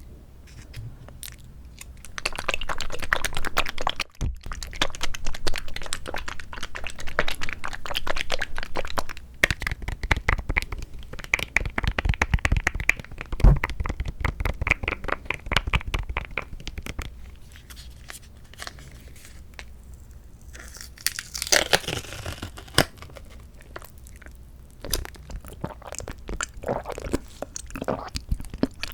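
Close-miked eating of a mandarin orange fruit cup: dense runs of chewing and crackling, with crinkling of the plastic cup or lid, including a louder crinkly stretch around three-quarters of the way in.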